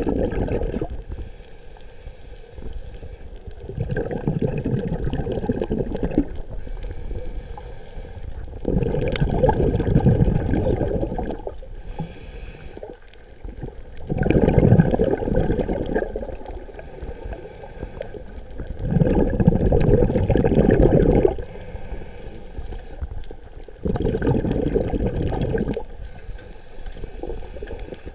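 A scuba diver breathing through a regulator, heard through an underwater camera housing: a bubbly rush of exhaled air about every five seconds, six times, with quieter inhales between.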